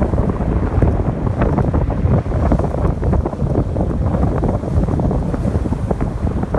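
Strong wind buffeting the microphone, a dense, continuous low rumble with constant small gusts, over the wash of ocean surf breaking on the beach.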